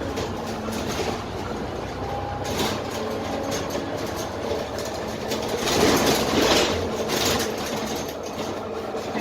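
Inside a Dennis Trident double-decker bus under way: its Cummins ISMe diesel engine running steadily under the noise of the cabin, with fittings and panels rattling and knocking, loudest around the middle of the stretch.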